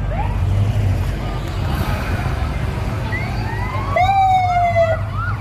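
Police sirens on a parade of Ford Mustang police cars: faint rising wails at first, then about four seconds in a louder siren holds a tone and switches to quick rising yelps, several to the second. A steady low rumble runs underneath.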